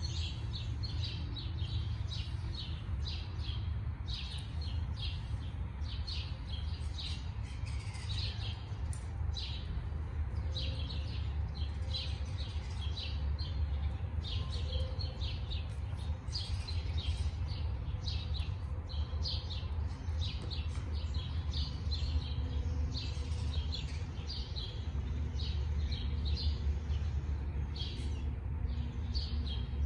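Small birds chirping continually, many short high chirps in quick succession, over a steady low rumble.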